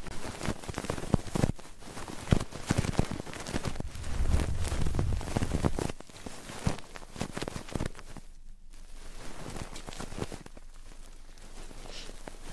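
Close-miked ASMR rubbing and scratching on a microphone, a dense run of crackles and rustles, with a low rumble of handling about four to six seconds in and softer, sparser crackling after that.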